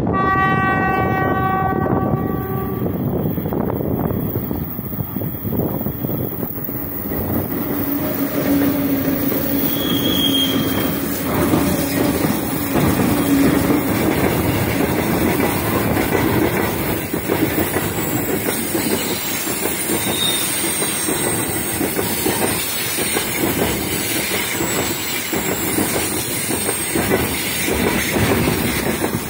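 A 2ES5K Ermak electric freight locomotive sounds its horn once for about two and a half seconds as it approaches. The locomotives then pass close by, followed by a long train of loaded freight wagons rolling past with steady clickety-clack on the rail joints and thin, high wheel squeals now and then.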